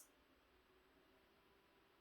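Near silence: faint room tone with a low steady electrical hum, and the tail of a relay click dying away at the very start.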